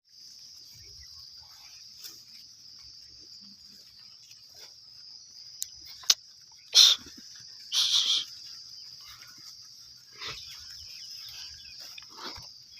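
Steady high-pitched insect chirring, crickets or cicadas, with a sharp click about six seconds in and two short loud bursts of noise just after.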